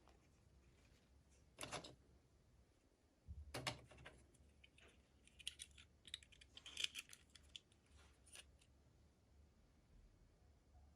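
Faint scattered clicks and crisp rustles of small plastic toy packaging and doll pieces being handled.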